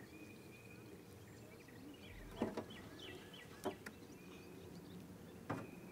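Faint lakeside evening ambience with birds chirping. Three sharp knocks or clicks stand out, spread across the stretch.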